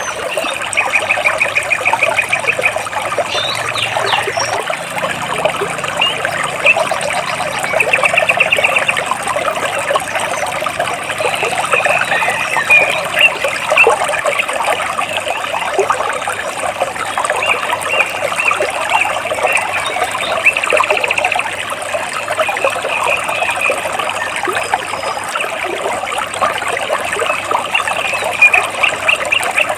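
Stream water trickling and splashing between rocks, with a steady dense babble. A bird sings short rapid trills over it every few seconds.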